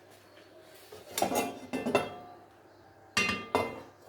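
Metal pots and cooking utensils clanking together: a cluster of sharp, ringing knocks about a second in, and two more about three seconds in.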